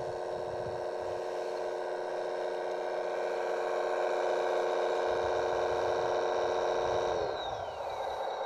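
Electric motor of an RC construction model whining steadily, then spinning down with falling pitch about seven seconds in.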